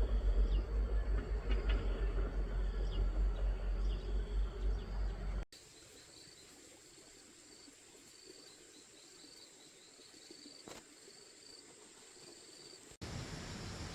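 Forest insects chirping in quick, evenly spaced pulses over a steady high-pitched drone. For the first five seconds a loud low rumbling covers them, then it cuts off abruptly and the chirping carries on quietly. Near the end a louder rushing noise comes in.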